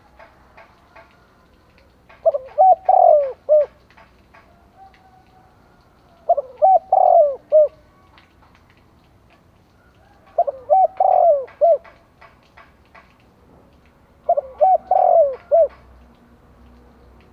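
A male spotted dove gives its calling song, used as a decoy call to draw wild doves. There are four phrases of several coos each, one about every four seconds.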